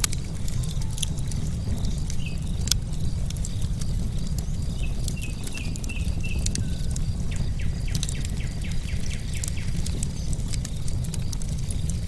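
Wood fire crackling, with frequent sharp pops over a steady low rumble. Birds chirp in the background, including a quick series of short notes about halfway through.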